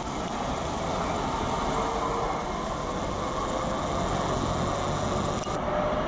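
PATCO Speedline rapid-transit train running on the tracks, a steady rail rumble with a faint whine slowly rising in pitch.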